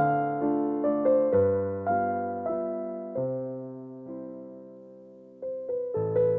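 Background solo piano music in a gentle waltz. A chord dies away slowly through the middle, then new notes come in near the end.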